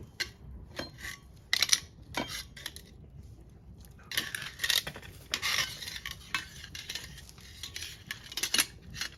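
Metal cookware and utensils clinking and knocking at an irregular pace, like a pot and ladle being handled, with a denser, scraping stretch in the middle.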